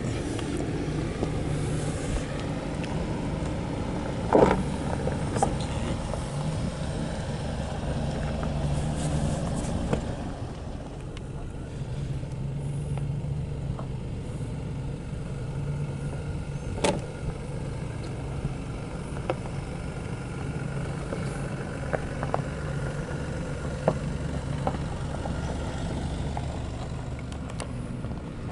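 Ford SUV driving slowly off-road: a steady low engine and drivetrain drone with scattered sharp knocks and clicks, the loudest about four seconds in.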